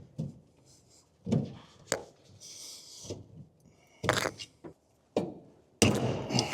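A pry bar levering on the rusted steering coupler (rag joint) of a 1984 Dodge W100 as it is worked off the steering box splines: a series of separate metal clunks and knocks, a short scrape, and a longer scraping clatter with some metallic ring near the end.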